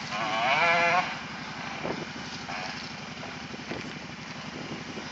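ATV engine revving for about a second with a wavering, warbling pitch, then dropping to a steady low idle.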